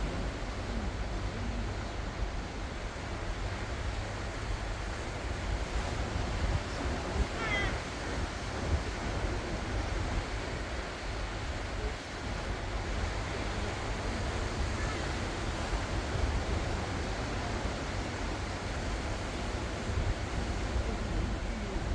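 Ocean waves washing onto the shore in a continuous steady surf, with wind rumbling on the microphone.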